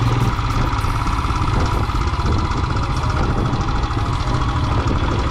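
Single-cylinder Royal Enfield motorcycle engine running steadily under way with a rapid, even thump.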